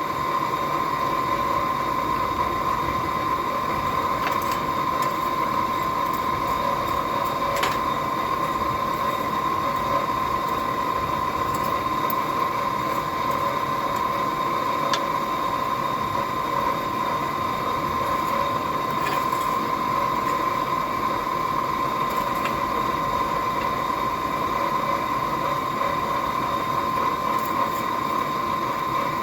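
A forge running steadily: a continuous rushing noise with a constant whine, and a few faint clicks now and then.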